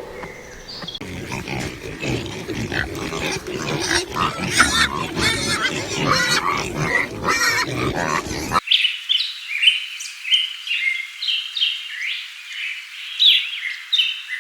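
Pigs grunting and squealing in a dense, irregular chorus. About eight and a half seconds in, this cuts off suddenly to a run of short, high chirping calls.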